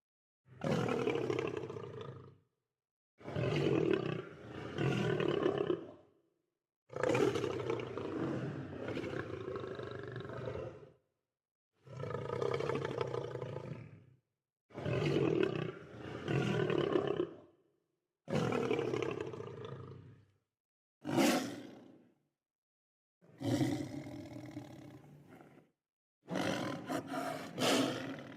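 Lion roaring: about nine separate calls, each one to four seconds long, starting strong and fading. There is dead silence between the calls.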